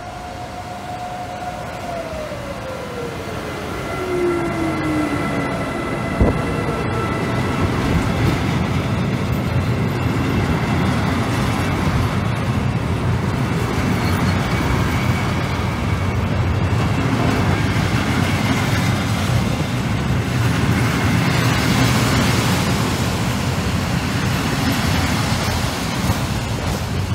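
Freight train passing at speed behind an electric locomotive. The locomotive's whine falls in pitch as it goes by, about two to five seconds in, followed by the steady rolling noise of a long rake of container flat wagons on the rails.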